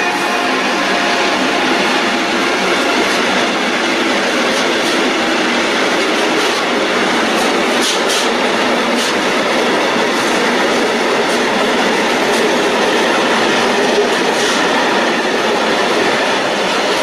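Freight train of container and tank wagons rolling past close by: a steady loud rumble of wheels on rail, with a few sharp clicks of the wheels over the rail joints.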